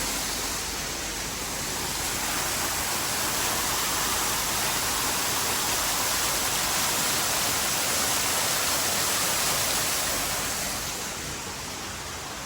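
Steady rushing of falling water from a waterfall, an even hiss that drops in level about eleven seconds in.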